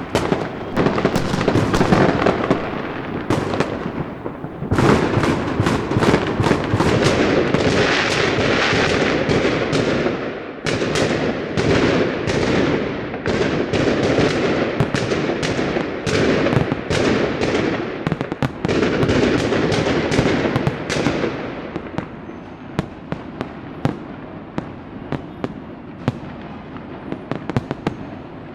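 Firecrackers and fireworks going off in dense, rapid crackling volleys, with a brief lull about four seconds in, thinning to scattered pops and bangs over the last several seconds.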